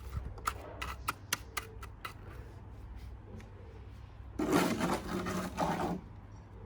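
A quick run of sharp clicks and taps, then a harsh scrape lasting about a second and a half, broken once near its end: hand work on a cement-mended bird bath.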